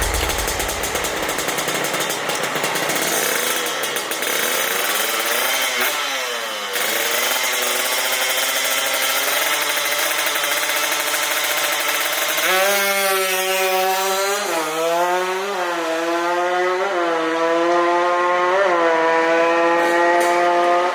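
Tuned two-stroke Kawasaki KR150 motorcycle engine, bored to 59 mm, running hard at high revs in a drag run. Its note climbs and dips several times, about every two seconds, as it shifts up through the gears.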